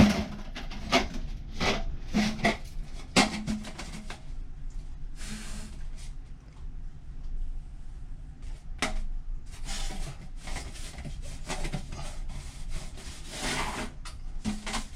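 Irregular rubbing, scraping and knocking of hands working inside an aluminum dryer vent duct, clearing out lint.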